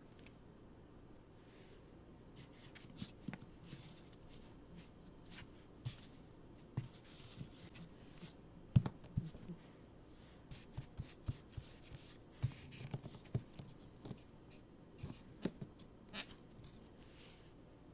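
Hands handling packaging during an unboxing: an irregular run of soft taps, clicks and rustles, with the sharpest tap about nine seconds in.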